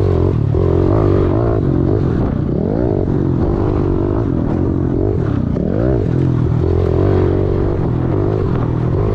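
Kawasaki 110cc four-stroke single-cylinder pit bike engine running hard, heard close up from the rider's chest mount, its revs rising and falling again and again as the rider works the throttle and gears around the track.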